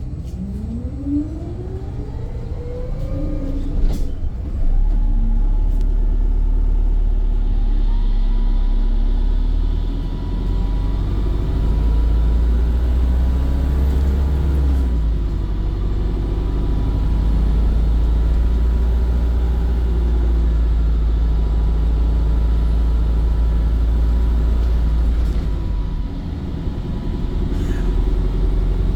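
Volvo B5 bus under way: a whine rising in pitch as it pulls away, then a heavy, steady low rumble with wavering whines over it as it runs on.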